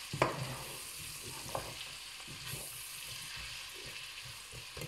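Diced chicken and carrots sizzling steadily in a stainless steel pot while a slotted metal spoon stirs them, clicking and scraping against the pot, loudest about a quarter second in. The carrots are cooking down to soften.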